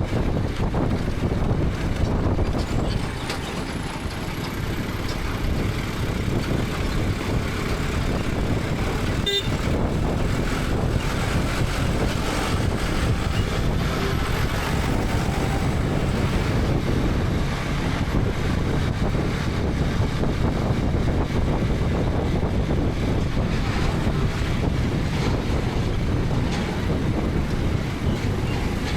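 KTM 250 Adventure's single-cylinder engine running under way, mixed with steady wind and road noise.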